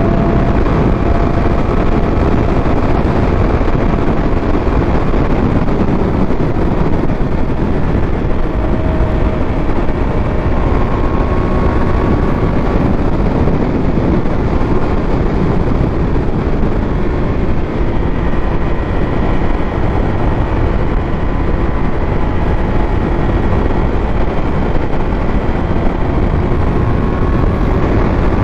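Wind rushing over the microphone on a moving motorcycle, with the steady note of the 2022 Triumph Speed Triple 1200 RS's inline three-cylinder engine running underneath at a fairly even speed.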